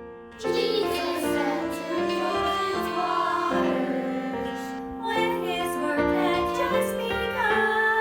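Solo singing with piano accompaniment; the voice comes in about half a second in, over sustained piano chords.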